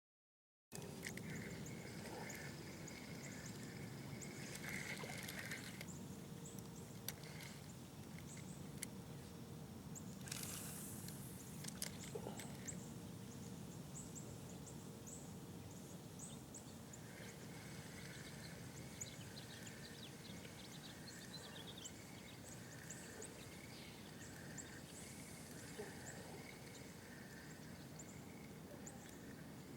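Faint evening outdoor ambience of birds and insects: a repeating pulsed chirping with scattered higher chirps and a few falling bird calls, after a second of silence at the start. A brief rush of noise about ten seconds in.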